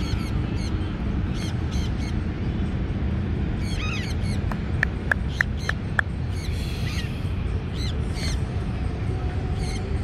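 Bird calls: scattered short high chirps, with a quick run of five or six sharp pips about halfway through, over a steady low background rumble.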